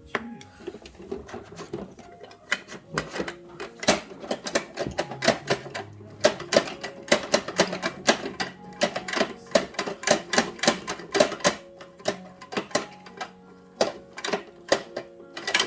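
Rapid, irregular clicking and clacking of hard plastic parts on Bruder toy garbage trucks as they are worked, over background music.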